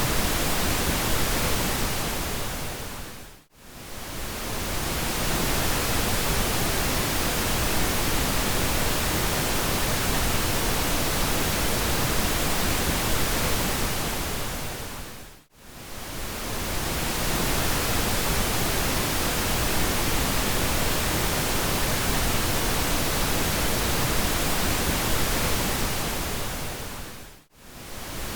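Steady synthetic pink noise, an even hiss spread across low and high pitches. It fades briefly to near silence and back three times, about twelve seconds apart.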